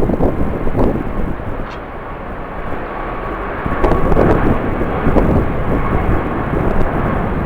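Airliner engine noise at an airport, with a faint steady whine in the second half, under strong wind gusting against the microphone.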